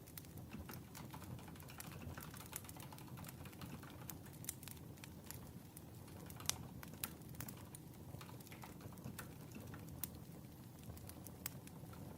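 Wood fire crackling: sharp, irregular pops and snaps over a low, steady rumble of burning logs, with one louder pop about halfway through.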